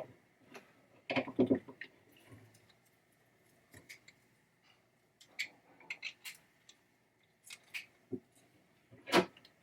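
Scattered small clicks, scrapes and knocks of a screwdriver and metal bracket parts as screws are tightened on a pinball trap door coil assembly, with a cluster about a second in and a sharper knock near the end.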